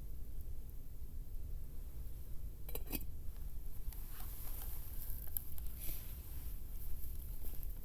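Light clicks and clinks of small hard objects being handled, a quick cluster of sharp clicks about three seconds in, then fainter taps and rustles, over a steady low rumble.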